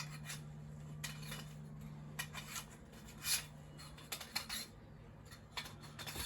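Short metallic clinks and scrapes from curtain rings and a curtain rail being handled while a curtain is hung, about a dozen irregular ones, over a faint steady low hum.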